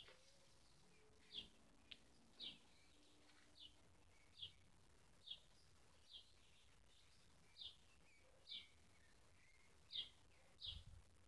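Faint, short, high bird chirps, repeated about once a second with slightly falling pitch.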